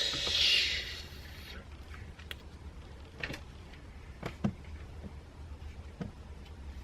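Handling noise: a short hiss at the start, then a few soft, scattered clicks and knocks over a low steady hum.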